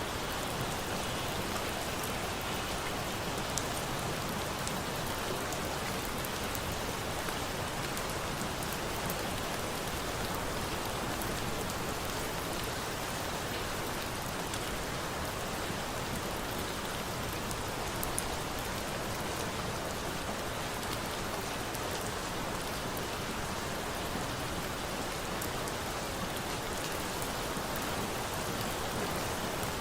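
Steady rain falling, with a few sharp crackles from a burning wood fire.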